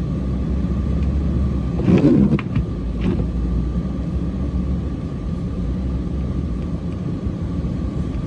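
Cummins diesel engine running steadily with a low drone while clearing snow, a brief louder sound breaking in about two seconds in.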